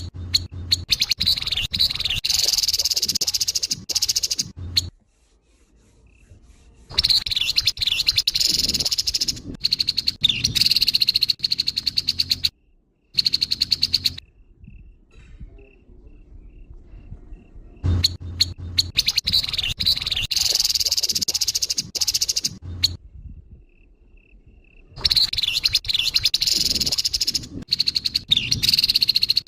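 Grey-headed babbler (tepus kepala abu) giving harsh, rasping chatter calls in four bursts of about five seconds each, with short pauses between them.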